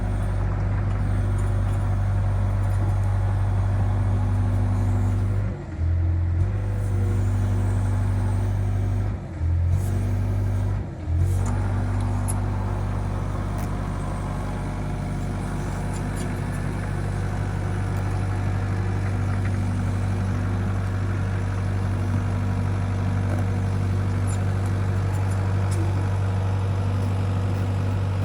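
Excavator's diesel engine running steadily, with three brief dips in the sound about six, nine and eleven seconds in.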